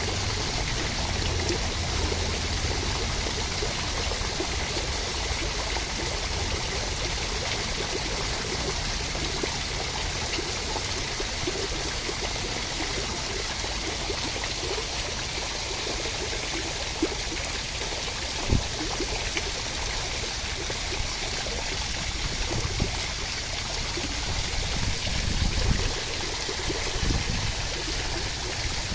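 Steady rain: an even rushing hiss of water, with a few brief sharper taps around the middle and near the end.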